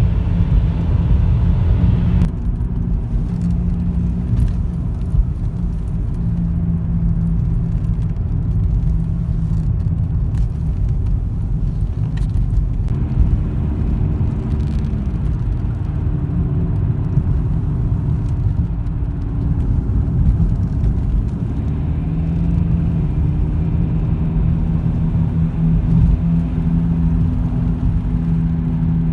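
BMW E46 3 Series on the move: a steady low rumble of tyres and engine, with a low drone that shifts in pitch a few times and a few faint ticks.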